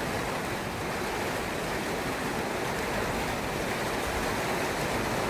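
Rain pouring steadily, a constant rushing hiss, with wind buffeting the microphone in a low, uneven rumble.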